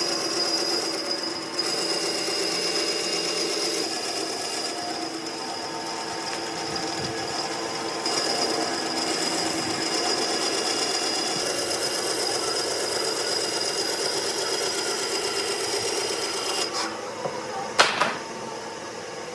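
A woodworking power tool running steadily with a high whine, working on wood, then stopping near the end, followed by a couple of sharp knocks.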